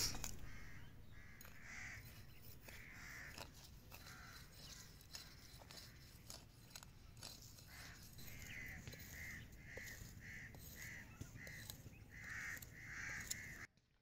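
A crow cawing, faint: a run of short calls, scattered at first, then a steady series of about two a second from about eight seconds in, which cuts off suddenly near the end.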